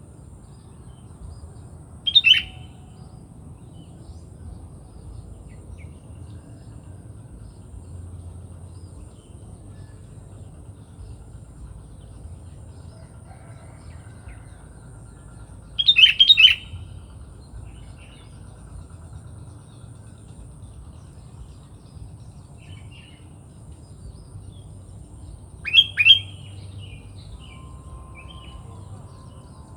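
Sooty-headed bulbul giving three short, loud chirping calls, spaced about ten to fourteen seconds apart; the middle call is the longest.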